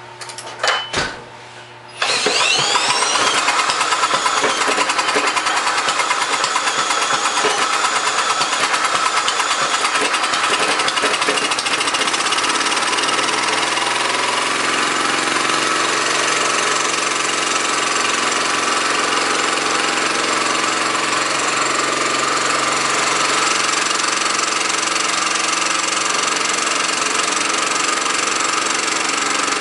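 1934 Briggs & Stratton Model A single-cylinder engine, fitted with a small homemade muffler, giving a few clicks and then catching about two seconds in, rising briefly in speed and running steadily at its governed speed. It runs well after twenty years unused, though the owner thinks the carburetor probably needs some attention.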